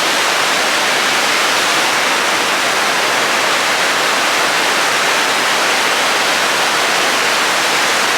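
Victoria Falls' water plunging into the gorge, a loud, steady, even rush of falling water.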